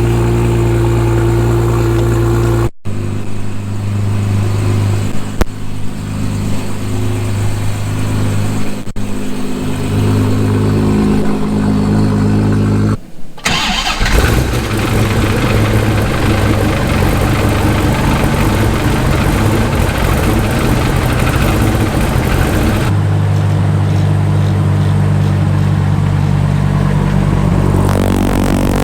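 Exotic sports-car engines running and idling high, with some revving, in spliced clips that cut abruptly about 3, 13 and 23 seconds in.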